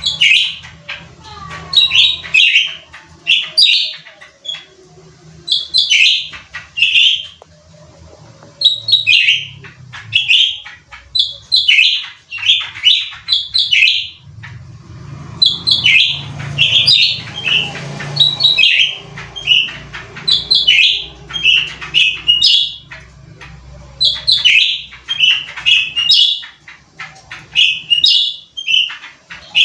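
A cucak ranting songbird singing hard, loud short chirping phrases repeated in quick bursts with brief pauses.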